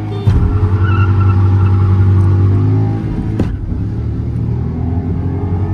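Renault Triber's three-cylinder petrol engine, heard from inside the cabin, revving hard as the car launches from a standstill under full throttle. About three and a half seconds in there is a brief dip and a click, a gear change, and then the engine pulls hard again.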